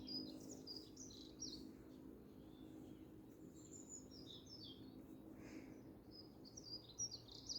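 Faint birdsong: many short, high chirps and twitters going on all the while, over a faint, steady low hum.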